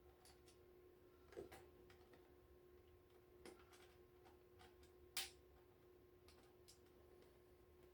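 Faint, scattered clicks and taps of small screws and plastic parts being handled, a few seconds apart, the loudest about five seconds in, over a faint steady hum.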